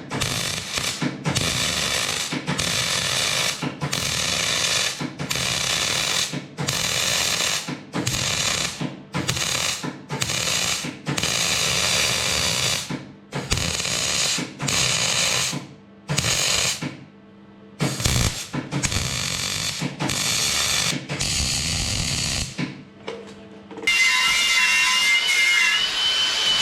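Electric arc welding on a steel tractor exhaust muffler, laid down as a string of short crackling bursts about a second long with brief pauses between them as small plates are tacked over holes. Near the end the welding stops and music comes in.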